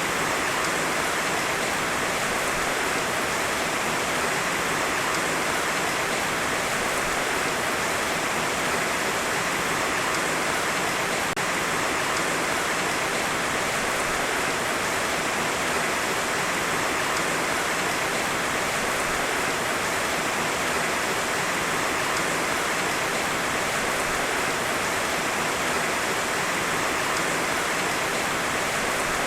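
Heavy rain falling steadily as an even, unbroken hiss, with no thunder.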